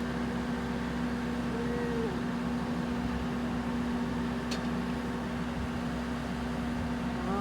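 Boat-lift machinery running with a steady hum as it lowers a yacht in its slings, with a single sharp click about halfway through.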